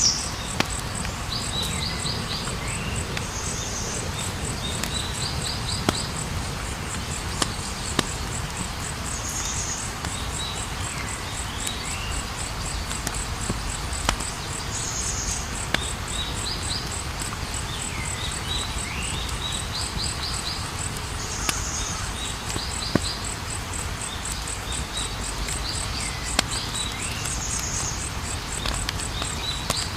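Campfire burning with a steady low rush and about nine sharp pops scattered through it, over a fast, even chirping of night insects such as crickets and a short call that repeats every few seconds.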